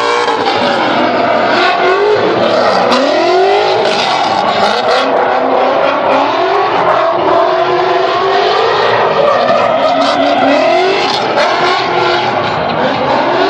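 A drift car's engine revving hard, its pitch rising and falling again and again as the car slides, with tyre squeal.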